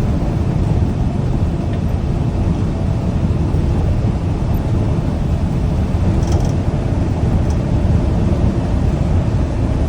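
Steady low rumble of a semi-truck's engine and road noise heard inside the cab while driving.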